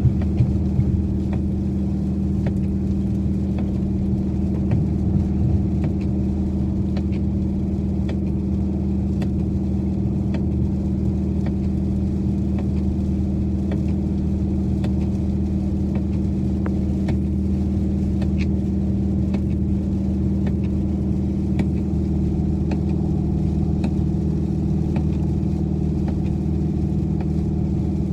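2012 Dodge Challenger R/T's 5.7-litre HEMI V8 running at a steady cruise: an even, low drone that holds its pitch.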